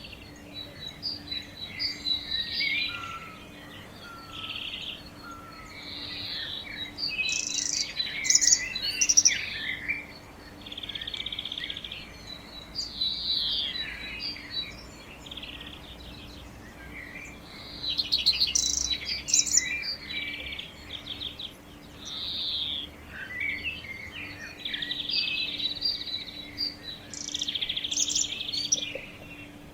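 Several birds singing and calling, with overlapping chirps and rapid trills that come and go in louder bouts, over a faint steady low hum.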